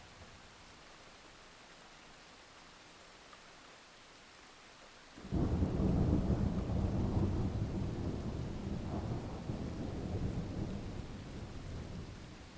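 Steady rain, then about five seconds in a sudden thunderclap that rolls on as a deep rumble for several seconds, fading near the end.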